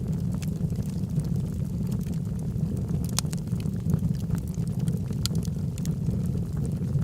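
Log fire burning in a fireplace: a steady low rumble of flames with scattered sharp crackles and pops from the wood, two louder snaps about three and five seconds in.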